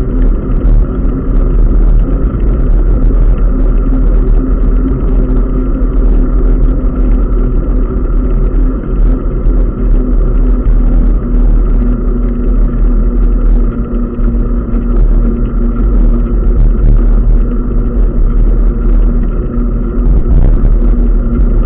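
Steady, loud rumble of wind and road noise on the microphone of a moving bicycle, with a constant low hum running through it.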